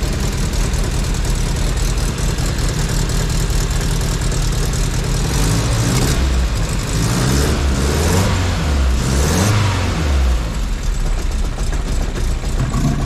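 Turbocharged four-cylinder engine of a Mk1 Ford Fiesta idling, then blipped up and down several times about halfway through before settling back to idle.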